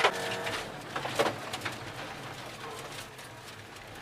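Ford Ka rally car engine heard from inside the cabin, its steady note dropping away as the driver comes off the throttle for a chicane. A few sharp knocks about a second in.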